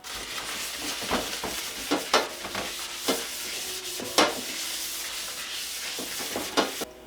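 Food sizzling in a frying pan while it is stirred and scraped with a utensil, with several sharp clacks against the pan, the loudest about four seconds in.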